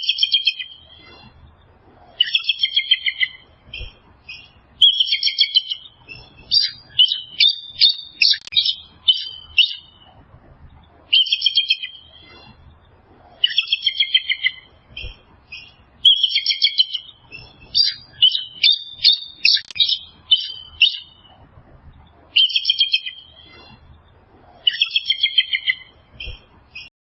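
A small bird singing in short, repeated chirping phrases, one every second or two, some of them fast trills.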